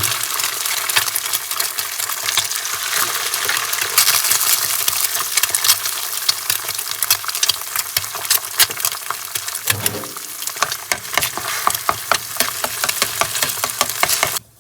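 Food frying and sizzling in a pan, a dense crackle of sharp pops, with a dull knock about ten seconds in. It cuts off abruptly just before the end.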